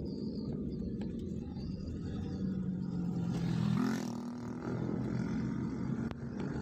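A vehicle engine running with a steady hum, swelling briefly about halfway through.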